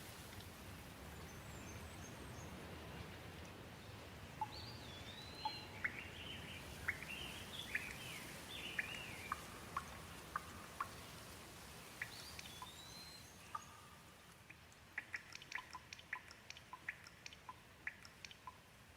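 Gentle rain falling, with a bird calling in short rising and falling chirps through the middle. Near the end the rain hiss drops away and quick single drips tick in a rapid scatter.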